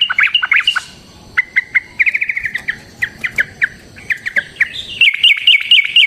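Yellow-vented bulbul singing a long, fast chattering run of short, downward-sliding notes. The run is broken by a brief pause about a second in, then resumes in quick bursts that get louder near the end.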